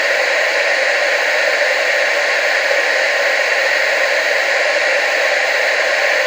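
Steady hiss of TV static (analogue television snow), an even, unchanging noise centred in the mid frequencies with little low end.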